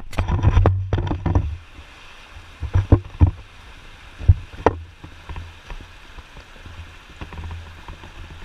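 Low rumble of wind or handling on a body-worn action camera's microphone for the first second and a half, then scattered scuffs and knocks of hikers' footsteps and gear on the trail.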